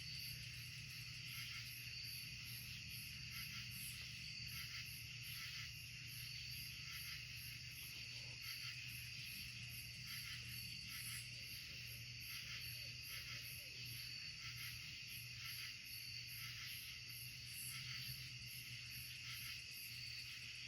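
Chorus of night insects: a steady, high-pitched trilling with a rapid, even pulse, over a faint low hum.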